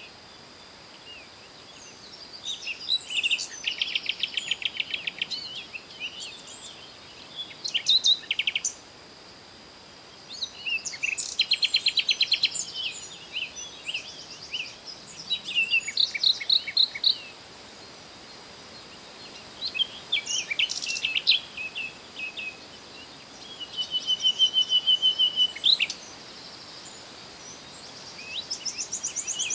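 Songbirds singing: short bursts of rapid trills and chirps, one every few seconds, over a faint steady high-pitched hiss.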